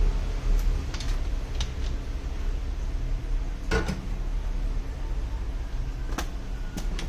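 Steady low hum with a few scattered sharp clicks and knocks, the clearest about four seconds in.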